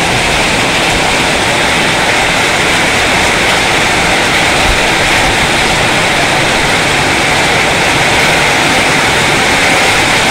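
Heavy rain pouring down, a loud steady rush of noise that does not let up.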